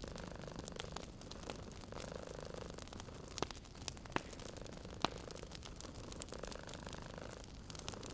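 Wood fire crackling with scattered small snaps and a few sharper pops in the middle, over a domestic cat's soft purring that swells and fades in slow cycles.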